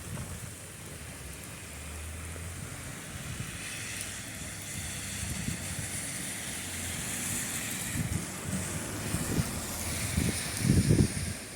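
Steady hiss of rain falling, with wind gusting over the microphone in low rumbles, the loudest gust near the end.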